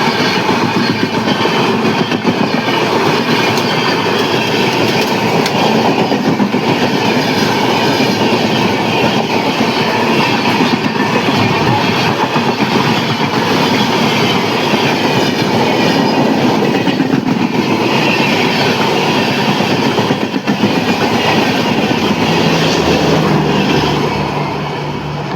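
Indian Railways passenger train running on the track, its wheels and coaches making a loud, steady rolling rail noise that eases slightly near the end.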